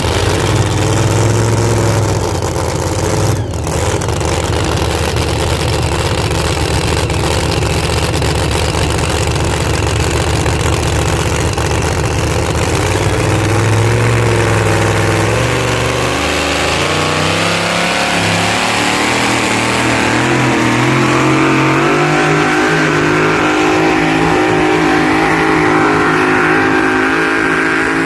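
Engine of a truck or tractor-pull vehicle running hard and loud under load. It holds a steady heavy drone, then its pitch climbs gradually through the second half.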